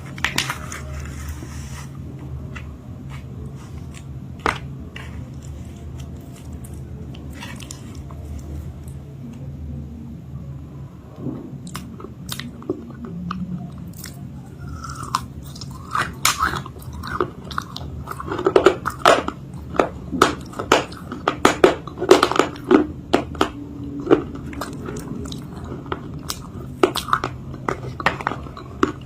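Close-up biting and chewing of a crunchy homemade chalk-paste cake, with scattered crackles at first and then dense, loud crunching from about halfway through.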